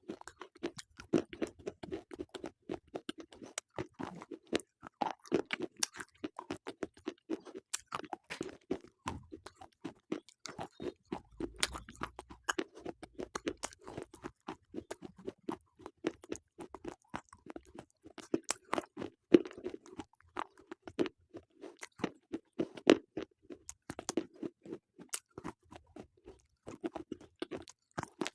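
Slate pencils being bitten and chewed close to the microphone, a steady run of sharp crunches and gritty chewing clicks.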